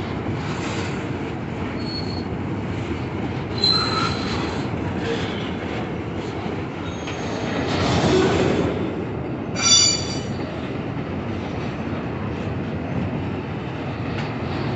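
Train cars rolling with a steady rumble, their wheels giving several short high squeals on the rails, the loudest a brief multi-toned screech about ten seconds in.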